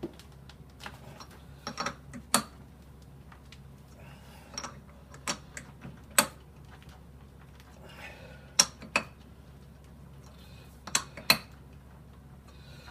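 Sharp metal clicks and clanks at irregular intervals, about a dozen, from a chuck key and the jaws of a 4-jaw lathe chuck as a workpiece is centred and tightened.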